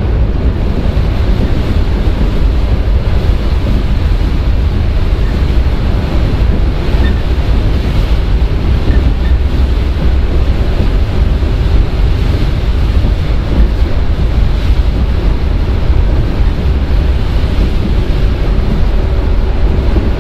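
Running sound inside a JR 115-series electric train's motor car (MoHa 114) at speed: a loud, steady rumble of wheels and running gear with a faint steady hum over it.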